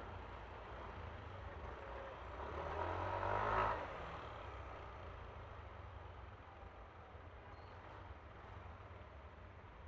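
Riding noise aboard a Yamaha Aerox scooter: a steady low engine drone and wind and road hiss. About three seconds in another vehicle swells past close by, its pitch falling as it goes, then fades back into the ride noise.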